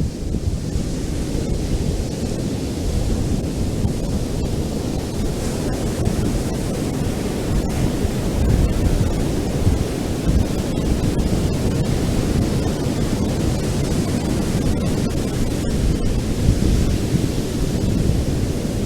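Ocean surf washing onto a beach in a continuous hiss that swells twice, with wind buffeting the microphone as a deep rumble underneath.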